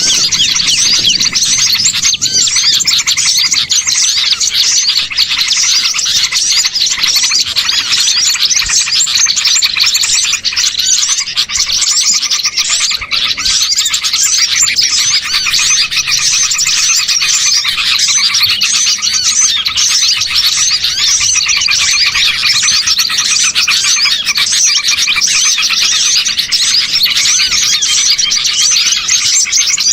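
A dense, noisy chorus of many small songbirds chirping and twittering at once, with no breaks: a bird-lure recording of small birds chattering agitatedly, played to draw wild small birds in.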